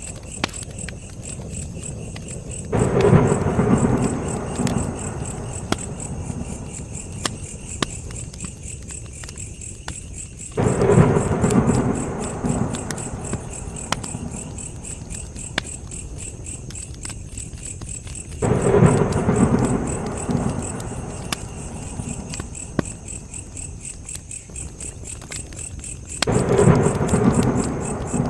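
Campfire crackling and popping against a steady high chirping of insects. About every eight seconds a louder, deeper rushing swell comes in suddenly and fades over two or three seconds, four times in all.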